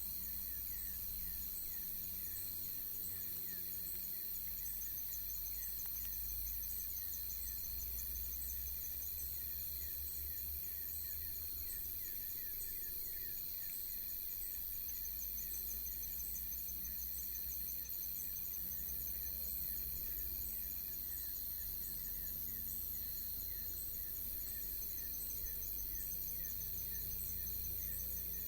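Insects, crickets or similar, chirping in a fast, even, high-pitched pulse, with repeated short falling chirps, over a steady hiss and a low rumble.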